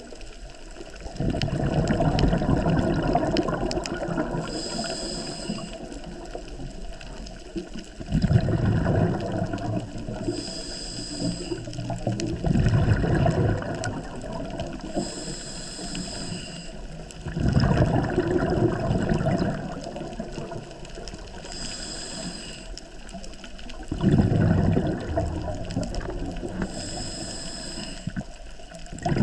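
Scuba diver breathing through a regulator underwater: a short hiss on each inhalation, then a loud burst of exhaled bubbles, repeating about five times in a slow, even rhythm.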